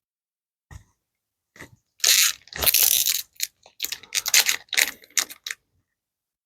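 Foil trading-card booster pack wrapper crinkling and being torn open: a couple of soft taps, then a run of crackling, rustling bursts from about two seconds in.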